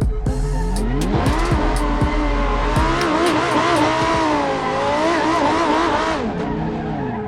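A car engine revving hard, its pitch rising and falling again and again as it is driven, then easing off near the end. Music plays faintly underneath.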